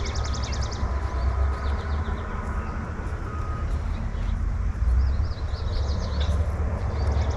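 Songbirds around a feeder: a rapid high trill in the first second, then scattered chirps and short calls, over a steady low rumble.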